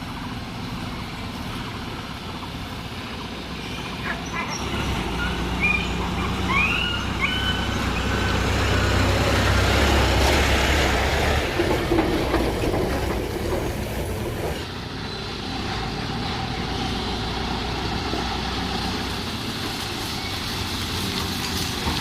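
Diesel engine of an Ashok Leyland 3525 tipper truck running, swelling louder for several seconds midway with a few short high squeaks, then dropping back abruptly to a steadier, quieter run.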